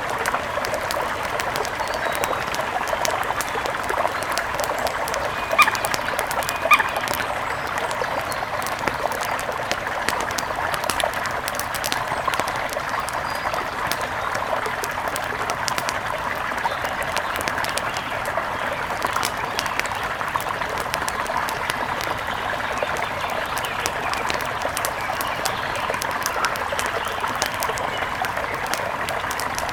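Steady rush of a mountain river, with two short bird calls about five and a half and seven seconds in.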